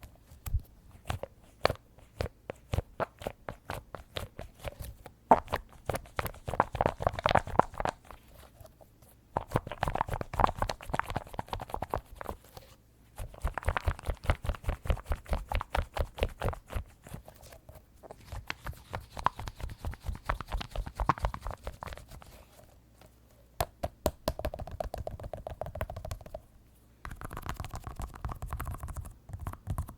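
Rapid tapping on a soft squishy squeeze toy, in quick runs of a few seconds with short pauses between.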